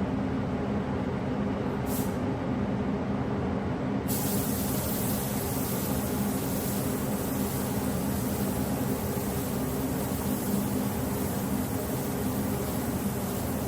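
Steady mechanical running noise with a low hum, joined about four seconds in by a high hiss that carries on.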